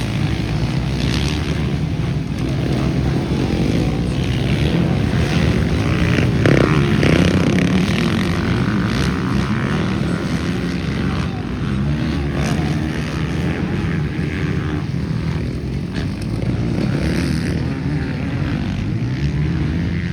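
Motocross bike engines racing on a dirt track, revving up and down in overlapping waves as riders accelerate and shift, loudest about a third of the way in.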